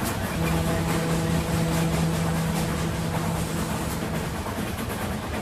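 A moving train: the steady rumble and clatter of rail cars, with a low steady tone held over it that stops about four seconds in.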